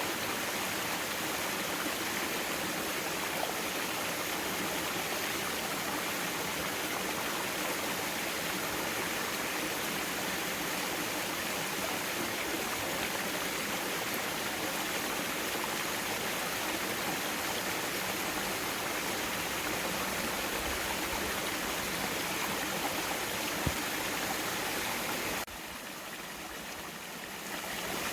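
Mountain valley stream flowing over rocks, a steady rushing of water that briefly goes quieter and thinner near the end.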